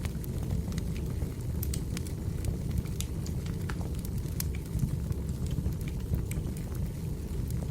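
Burning firewood: a steady low rumble of the fire with irregular sharp pops and crackles from the logs.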